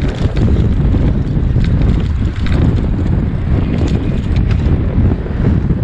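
Wind buffeting the microphone of a moving bicycle rider, a steady low rumble, with a few faint ticks over it.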